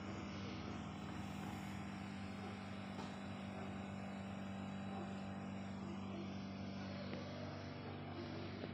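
A vehicle engine running at idle: a steady low hum that holds even throughout.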